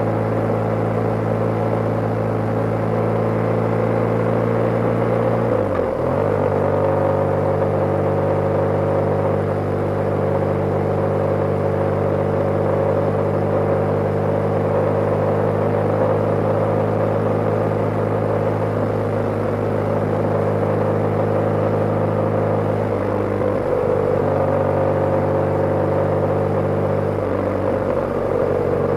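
BMW G/S motorcycle engine running steadily while riding at road speed, with wind noise; the engine note shifts briefly about six seconds in and again twice near the end.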